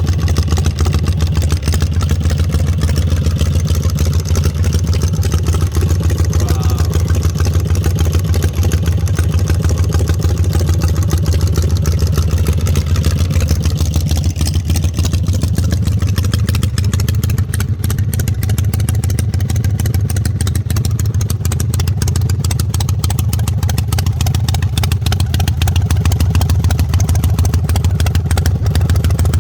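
Custom chopper motorcycle engine idling steadily, a continuous low rumble.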